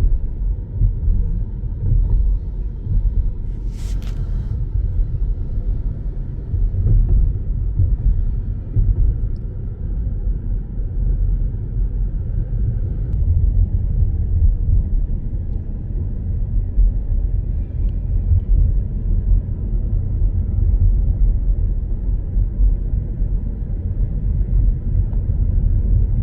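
Car driving along, a steady low rumble of road and engine noise from inside the moving car. One short click about four seconds in.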